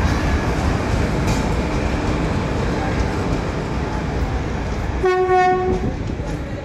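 Electric express train rumbling along the platform, then about five seconds in a single short, one-pitch blast of the WAP-4 locomotive's horn.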